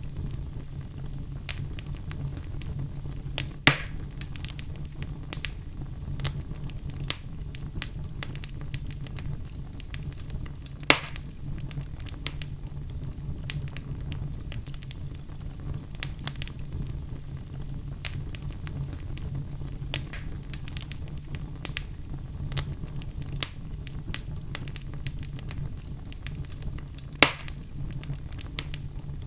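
Wood fire burning in a fireplace: a steady low rumble of the flames with frequent scattered crackles and three louder pops from the burning logs.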